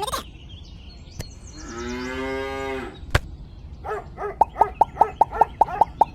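A cow moos once, a steady call of about a second, slightly falling in pitch. A sharp click follows, then a quick run of short chirping clicks, about five a second, over the last two seconds.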